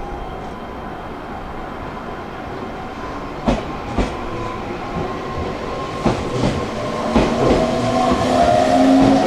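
Meitetsu electric train running on the rails: wheels clack over rail joints, with a pair of clacks about half a second apart in the middle and more after that. A humming tone grows louder over the last couple of seconds.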